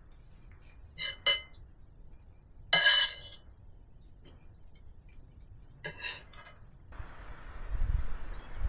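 Sharp clinks of hard objects striking: two quick ones about a second in, a longer ringing one about three seconds in, another near six seconds, then a steady rushing noise from about seven seconds in.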